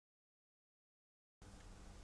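Near silence: dead quiet, then faint room tone with a low hum that cuts in suddenly about two-thirds of the way through.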